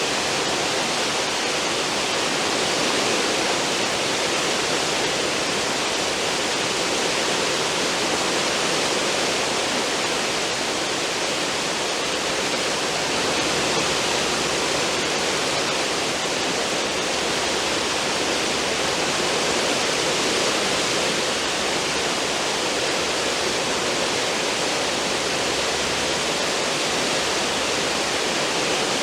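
Steady rushing and churning of a cruise ship's stern wake: foaming water thrown up behind the hull, an even, unbroken roar of water.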